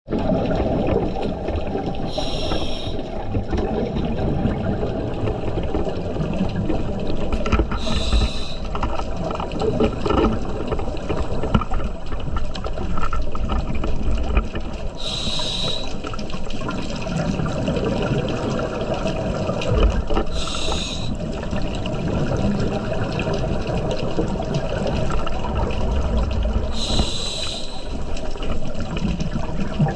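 Scuba diver breathing through a regulator underwater: five brief hissing breaths, one every five to seven seconds, over a steady underwater rumble.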